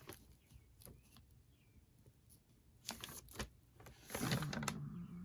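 Handling paper and tools at a worktable: a few light knocks and clicks, then a louder rustle of paper about four seconds in, with faint bird chirps in the background.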